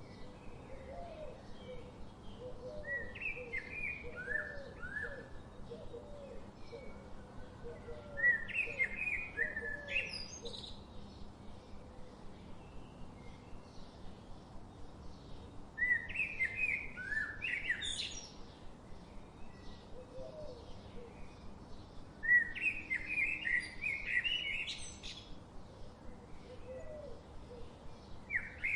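Songbirds singing in the wild. A phrase of quick chirping notes comes about every six to seven seconds, each ending in a high upward sweep. Softer, lower repeated notes run beneath during the first several seconds.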